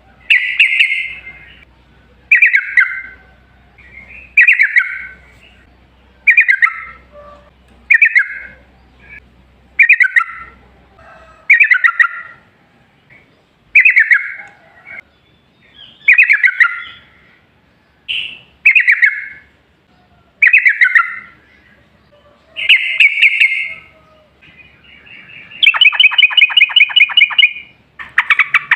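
Sooty-headed bulbul (trucukan) singing loudly: short bubbly phrases that fall in pitch, repeated about every two seconds, then a fast rolling trill of rapid notes near the end.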